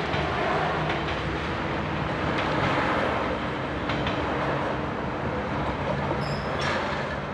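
Red passenger railcar passing over a level crossing: a steady engine and wheel rumble, with a few sharp wheel clacks over the rail joints.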